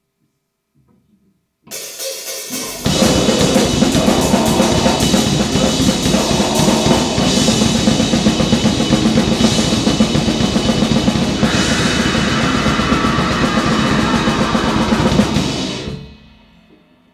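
Grind/noise band playing one short piece: after a brief quieter lead-in about two seconds in, drums and cymbals come in at full force with a dense, noisy wall of sound. It keeps going without a break and stops near the end, dying away over about a second.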